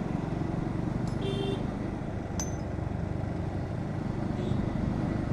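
Bajaj Pulsar NS125 single-cylinder engine running steadily under way, with road and wind noise. A short high-pitched tone sounds about a second in, and there is a sharp click a little later.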